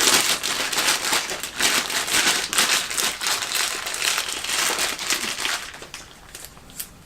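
Packaging crinkling and rustling as a new camshaft is handled and unwrapped, continuous and irregular, dying down after about five and a half seconds.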